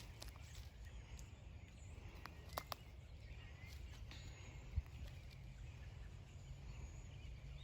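Quiet outdoor background: a steady low rumble with faint, scattered bird chirps, broken by a few sharp clicks, about two and a half seconds and nearly five seconds in.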